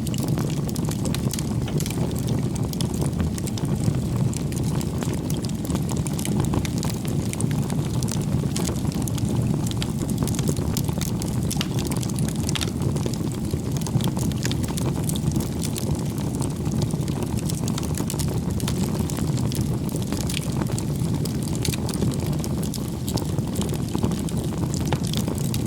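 Firewood bonfire burning: a steady low rumble of flames with frequent small crackles and pops of the wood.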